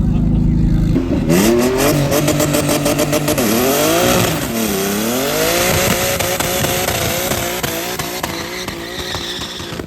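Car engines accelerating hard in a street drag race: a steady engine note, then a sudden loud launch with the revs climbing and dropping at each gear change, fading gradually as the cars pull away.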